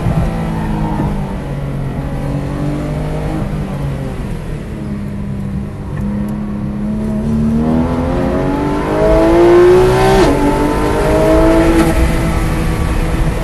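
Porsche 911 GT3 RS (991.2) flat-six engine running low through a slow corner, then accelerating hard with a rising engine note. About ten seconds in, an upshift drops the pitch, and it climbs again.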